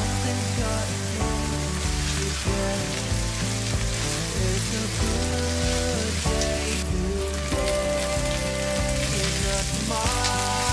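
Chopped onion and garlic sizzling in oil in a frying pan, a steady frying hiss, with background music over it.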